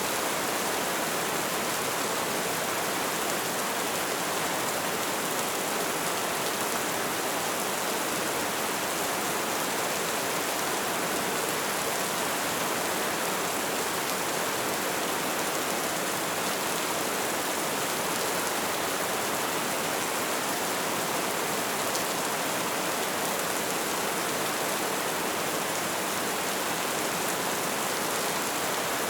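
Light rain falling steadily, a constant even hiss with a few faint ticks of single drops.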